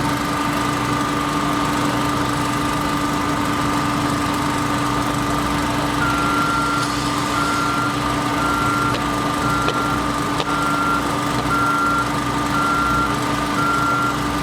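Diesel construction machine engine running steadily. About halfway through, a backup alarm starts beeping about once a second.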